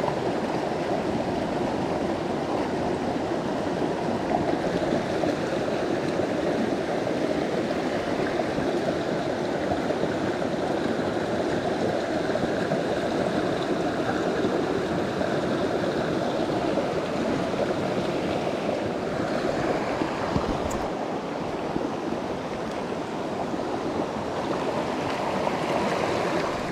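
Mountain stream water rushing steadily, with a single brief click about three-quarters of the way through.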